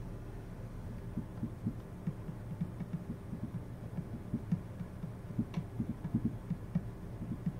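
Steady low machine hum with irregular soft low knocks.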